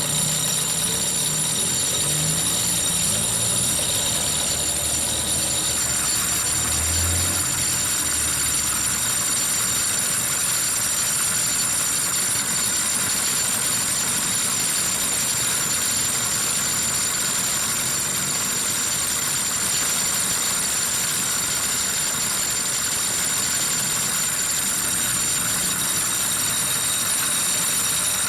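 Isuzu 4JA1 four-cylinder diesel engine running steadily at idle.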